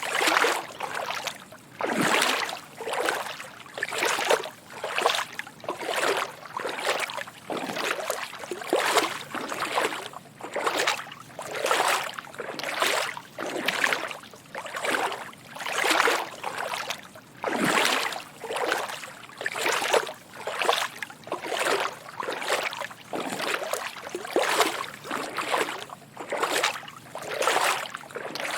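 Footsteps wading through shallow water: soft sloshing splashes in a steady walking rhythm, about one step a second.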